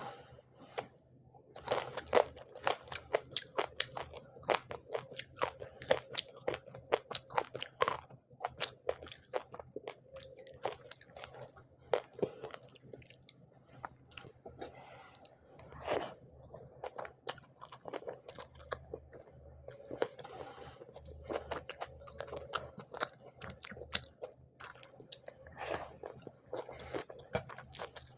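Close-miked chewing and biting of a mouthful of fried hilsa fish and rice, full of crisp crunches. The crunches come thick and fast over the first several seconds, then more sparsely.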